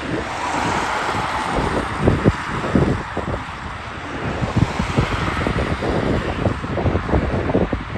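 Wind buffeting the microphone in irregular gusts over the steady rushing noise of jet airliner engines at an airport.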